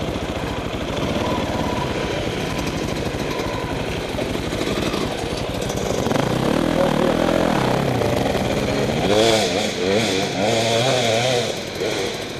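Dirt bike engine running steadily at low revs, then from about halfway the pitch swings up and down again and again as the throttle is opened and closed.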